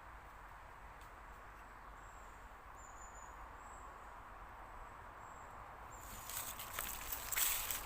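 Quiet outdoor background with a steady hiss and a few faint, thin high-pitched notes; about six seconds in, loud crackling and rustling sets in.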